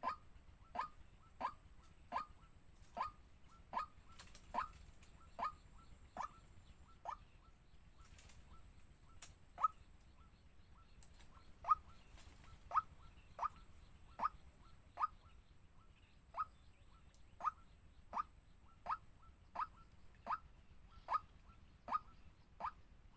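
A bird calling over and over, each call a short, sharp note sliding downward, about one to one and a half calls a second, with a pause of a couple of seconds near the middle.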